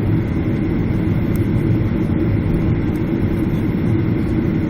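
Steady rumble of a Boeing 767 jet airliner's engines and airframe, heard inside the passenger cabin.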